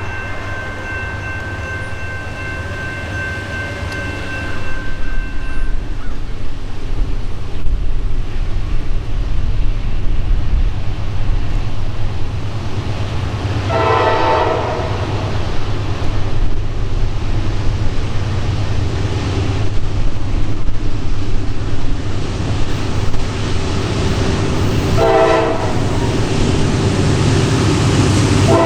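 Norfolk Southern GE D9-44CW diesel locomotive blowing a steady horn chord that stops about six seconds in, as the locomotive draws near and its engine rumble grows louder. A long train of freight gondola cars then rolls past with a steady rumble and wheel noise, broken by two short clattering bursts, about halfway and near the end.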